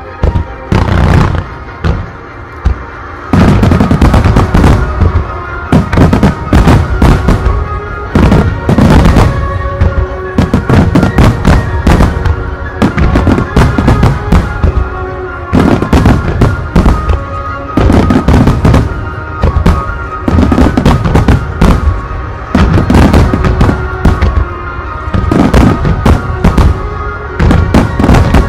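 A starmine fireworks barrage: aerial shells bursting in rapid, overlapping succession, dense booms and crackles, growing much denser about three seconds in. Music plays underneath throughout.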